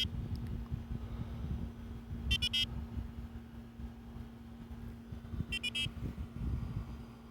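Onvoy ghost box giving short electronic chirping beeps as it picks out letters: a quick burst of high beeps about every three seconds, heard twice after one right at the start. Under them run a steady low hum and a low rumble.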